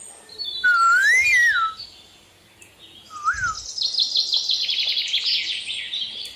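Pet parrot calling: a whistle that rises and falls about half a second in, a short whistle around three seconds, then a rapid, high chattering run through the second half.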